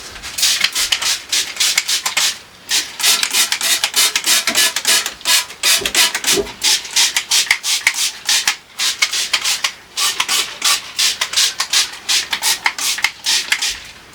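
Scrubbing by hand: quick, rasping back-and-forth strokes, about three or four a second, with a couple of brief pauses.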